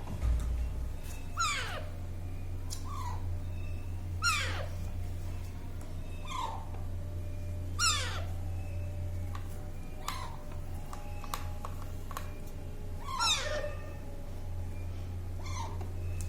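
Baby parrot giving short squawks that fall sharply in pitch, about eight of them, over a steady low hum.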